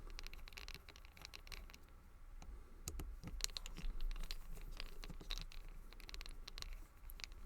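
Small scratches, clicks and scrapes of a brass padlock and tools being handled, busier from about three seconds in.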